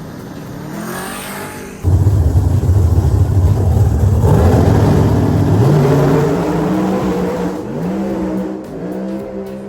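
Small-tire drag race car revving, then launching with a sudden jump in loudness about two seconds in. It runs down the strip with its engine pitch climbing in steps as it shifts gears, fading near the end.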